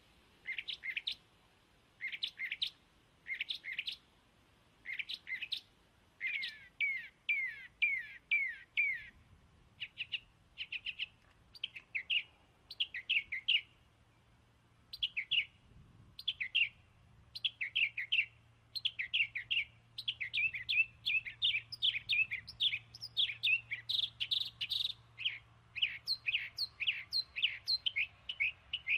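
Birds chirping: short, quickly falling chirps in clusters, sparse at first and coming almost without pause in the second half.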